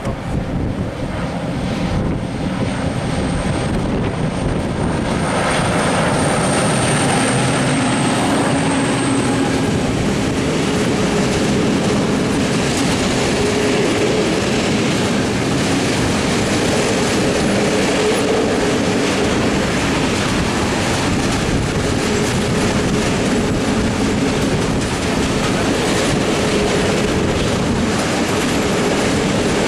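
Freight train passing close by, its wheels clacking over the rail joints, building up over the first several seconds and then holding steady and loud, with a thin high wheel squeal in the first several seconds.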